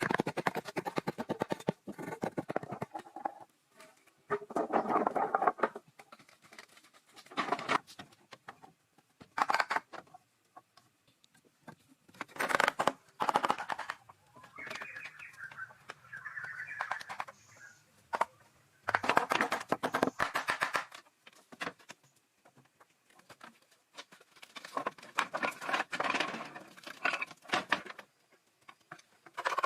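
Repeated spells of scratching and scraping, each a second or two long with short pauses between, full of fine rapid clicks.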